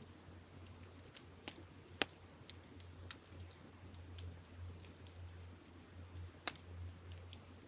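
Wood campfire crackling: an irregular scatter of small ticks with a few sharper pops, the loudest about two seconds in and again near six and a half seconds, over a low steady hum.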